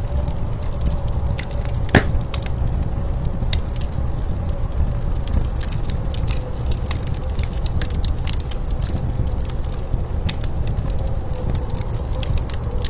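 Wood fire crackling with scattered sharp pops, one louder pop about two seconds in. Under it runs a steady low rumble of blizzard wind.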